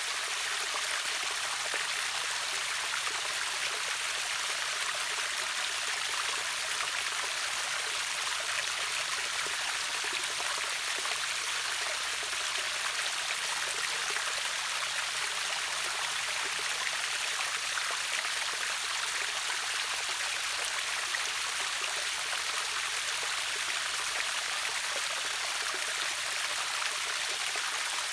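River waterfall: water rushing steadily, an even hiss strongest in the upper range with little deep rumble.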